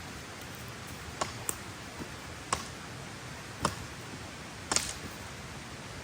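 A handful of short sharp clicks or knocks, irregularly spaced, over a steady hiss.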